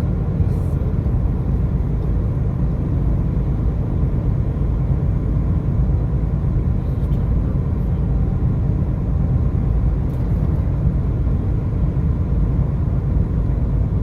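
Steady low rumble of a car on the move, with engine and road noise running without a break.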